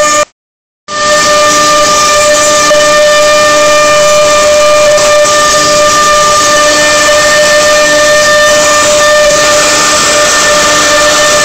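CNC router running with a steady high-pitched whine over a hiss. It cuts out completely for about half a second just after the start.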